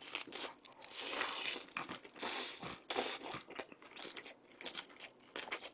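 A person chewing a bite of gorgonzola pizza with a spicy red topping, with a steady run of small wet crunches and smacks.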